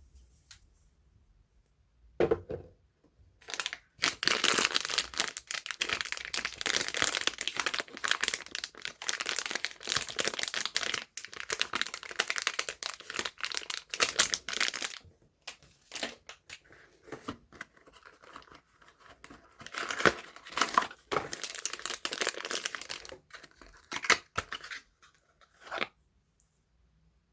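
Soap packaging being crinkled and torn open by hand. The crinkling comes in two long spells: one from about four seconds in to about halfway, and a second, shorter one later on, with scattered crackles between them.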